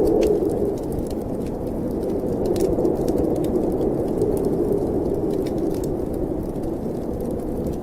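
Snowstorm wind howling as a steady noise that swells and eases slowly, with the scattered pops and crackles of a wood fire burning in a fireplace.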